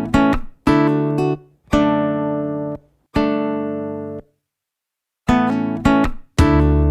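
Acoustic guitar music: single chords struck and left to ring out, one about every second, then a pause of about a second, then quicker strokes near the end.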